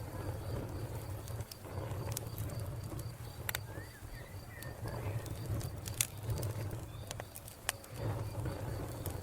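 Wood fire crackling, with occasional sharp pops over a low steady rumble. A cricket chirps in steady even pulses behind it, with a few faint bird chirps.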